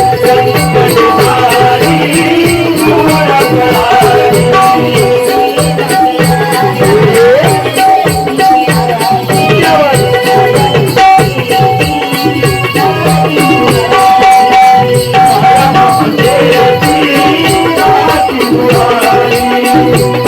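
Live naman folk music: a steady drum rhythm under fast, evenly spaced metallic ticking percussion, with a held melodic tone running through.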